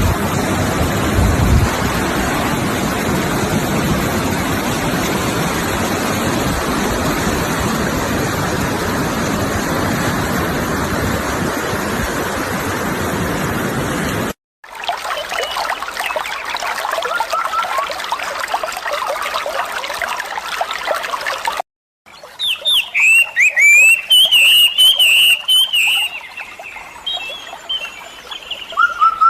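Three nature recordings cut one after another: a steady rush of sea surf, then quieter running water with faint bird chirps, then songbirds calling loudly, with many short, repeated falling whistles and thin high chirps over them.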